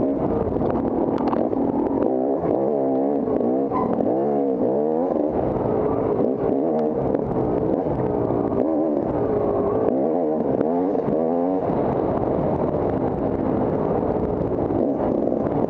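Dirt bike engine revving up and down as the bike is ridden, its pitch rising and falling quickly over and over, with occasional short knocks.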